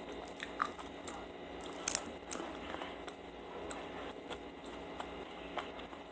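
Close-miked chewing of soft, chewy dried mango: wet mouth smacks and small sticky clicks, with one sharp click about two seconds in.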